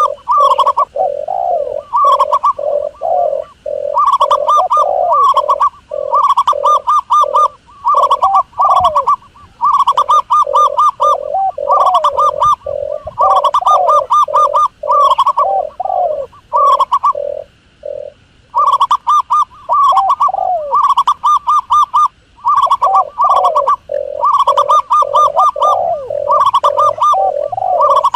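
Doves cooing: loud, continuous runs of short, rapidly repeated coos, with more than one call overlapping and only brief gaps.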